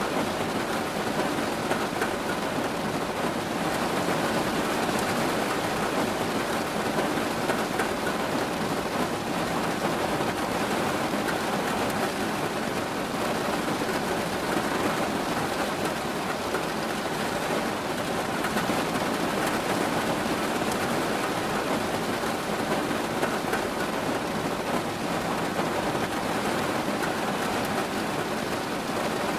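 Steady rain falling and pattering on surfaces, an even hiss of many drops with no breaks.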